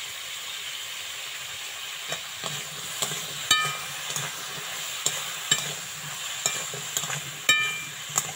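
Chopped kohlrabi frying in oil in a metal wok with a steady sizzle, while a flat spatula stirs it, scraping along the pan; twice the spatula strikes the wok with a ringing clink.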